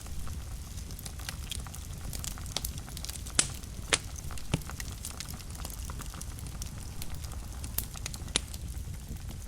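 Wood fire burning in a fireplace: a steady low rumble of flames with irregular sharp crackles and pops, two louder pops a little past the middle.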